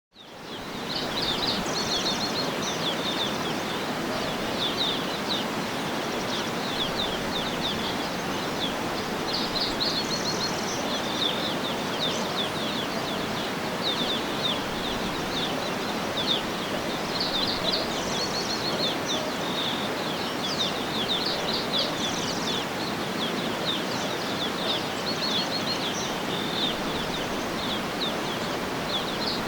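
Outdoor nature ambience: a steady, even rushing noise with small birds chirping over it again and again, high and quick, in clusters. It fades in during the first second.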